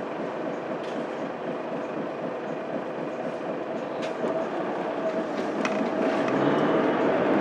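Interior running sound of a Mitsubishi Fuso Aerostar city bus on the move: the 6M70 diesel engine and road rumble. Near the end the engine note rises and grows louder as the bus pulls harder, with a few light rattling clicks.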